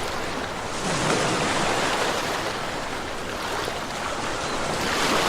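Ocean surf: waves breaking and washing in, with one surge about a second in and another building near the end.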